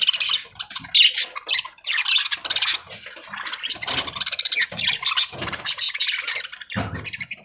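Budgerigars chattering and squawking together, a dense run of chirps and warbles that comes in uneven bursts.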